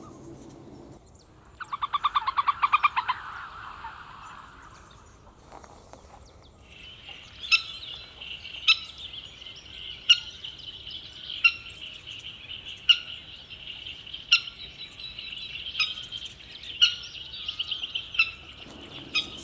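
Small birds calling around a pond: a short, rapid trill about two seconds in, then from about seven seconds a steady high-pitched buzz with sharp call notes repeating roughly every second and a half.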